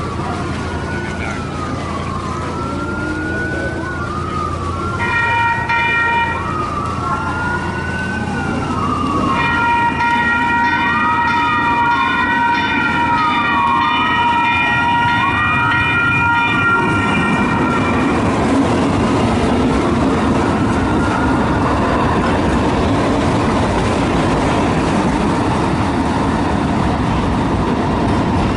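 Emergency vehicle siren wailing, rising and falling about every second and a half, with a short blast of a multi-tone horn about five seconds in and a long one from about ten to eighteen seconds. The siren fades out past twenty seconds as a steady rumble of a train running by builds up.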